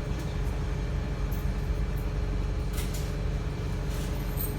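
Wright StreetLite single-deck bus heard on board while driving, its diesel engine running with a steady low drone. A thin steady whine sits above the drone, and a few short ticks and rattles come from the body.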